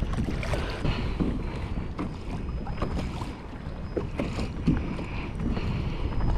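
Water lapping and splashing against a kayak's hull at sea, with wind buffeting the microphone and a few light knocks scattered through.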